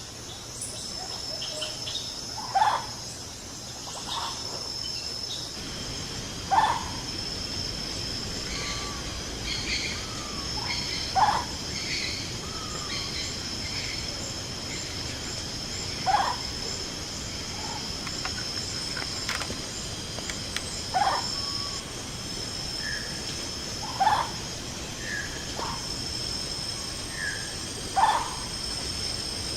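Amazon rainforest ambience: a steady high insect drone. Over it, a short, loud rising call repeats every three to five seconds, about eight times, with fainter chirps in between.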